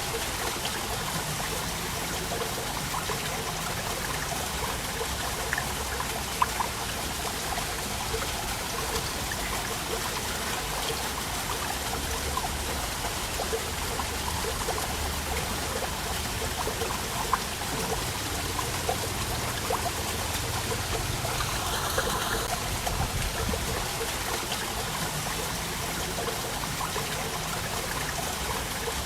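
Waterfall: water falling and splashing steadily, with small splashes standing out now and then.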